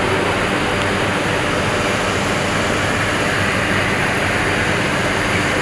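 Steady jet aircraft noise, a loud even rushing sound that does not rise or fall.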